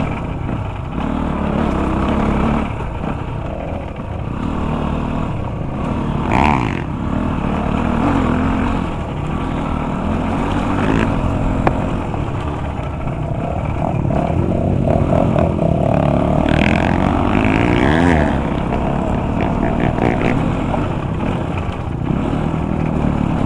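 Dirt bike engine running under changing throttle while it is ridden over rough ground, its pitch rising and falling as the rider revs up and eases off.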